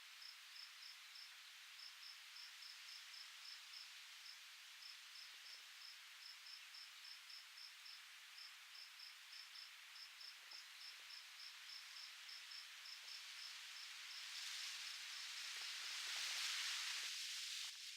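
An insect chirping steadily, about four even chirps a second, over a soft hiss of breeze. Near the end a gust of wind swells through the foliage and rustles, then eases.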